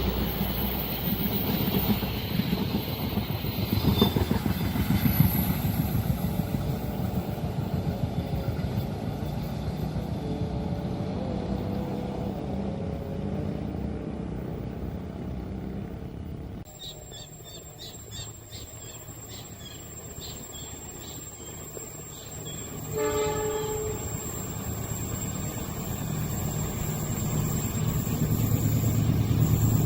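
A train passing over a level crossing, its wheels clattering in a fast, steady rhythm. About halfway through, the sound drops off suddenly to a quieter stretch with a short pitched signal. A low engine sound rises near the end.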